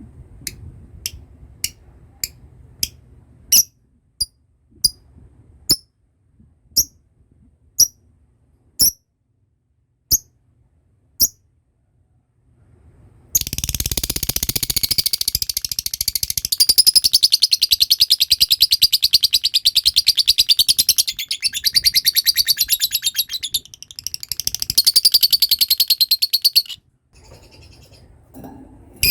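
Lovebird calling: single sharp chirps about once a second for the first eleven seconds, then, after a short pause, a long rapid chattering trill (the 'ngekek') lasting about thirteen seconds that stops a couple of seconds before the end.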